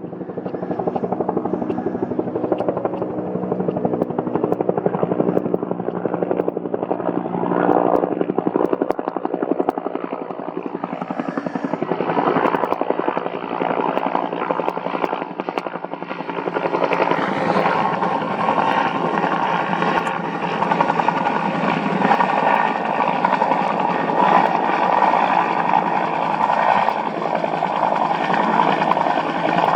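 UH-1N Huey helicopter flying, its rotor beating rapidly over the turbine noise; the sound grows louder and brighter about halfway through.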